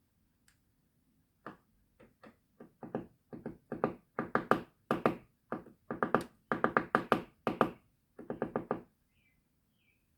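Woodpecker hammering on wood in quick bursts of sharp knocks, the bursts growing louder and stopping near the end. A few faint short bird calls follow.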